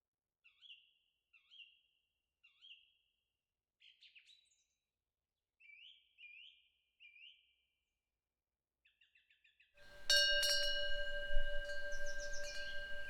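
Small songbirds chirping in short, faint downward-sliding calls, with a quick trill near the end. About ten seconds in, a Korean temple wind bell (pungyeong) is struck and rings on with several steady, sustained tones, the loudest sound.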